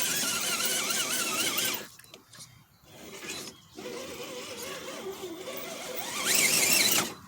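Electric motor and gearbox of a Redcat Gen7 RC rock crawler whining under throttle, the pitch wavering up and down as the throttle is worked. It cuts out about two seconds in, comes back more quietly, then rises into a louder climbing whine near the end before stopping.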